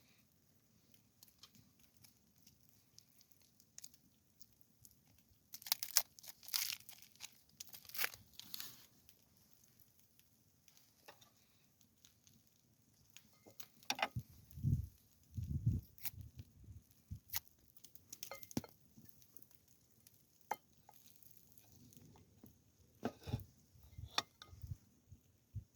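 Intermittent crinkling and rustling handling noises with scattered sharp clicks, and a few dull, heavy thumps about halfway through.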